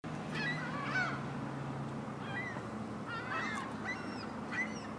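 A flock of gulls squabbling, with harsh gliding calls coming in clusters of several every second or so, from birds fighting over a bag.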